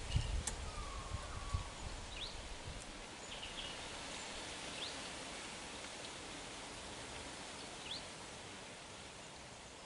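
Steady outdoor background hiss with a bird giving a short rising chirp every two to three seconds. A low rumble fades out over the first second or so.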